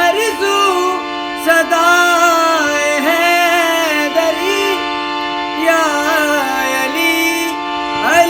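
A qasida sung solo, the voice gliding through long ornamented phrases over a steady held drone.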